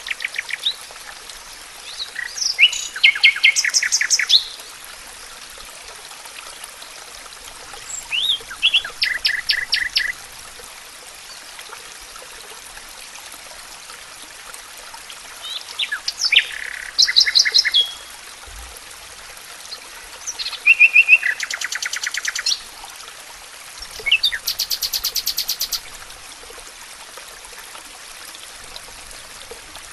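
A songbird singing six short phrases, each a quick run of rapid repeated high notes that changes pitch partway through, every few seconds over a steady background hiss.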